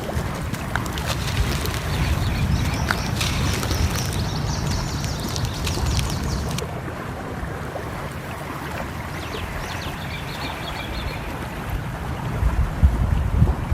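Mixed nature ambience: a steady rush of flowing water, with small birds chirping in runs of short high notes and scattered crackles of a wood fire. The water sound grows fuller near the end.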